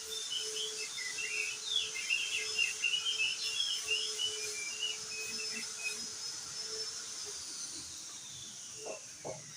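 Crested white-eye singing a rapid, jumbled twittering chatter that stops about six seconds in. Under it run a steady low tone and a steady high tone, and the high tone slides downward near the end.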